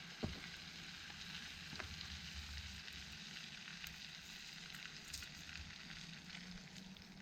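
Food sizzling steadily in a pan over a campfire, with a sharp click just after the start and a few faint crackles.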